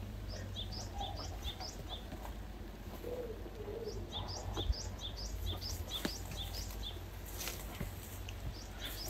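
A small bird chirping: quick runs of short, high chirps, about three a second, one run near the start and a longer one around the middle. A few faint knocks are heard midway.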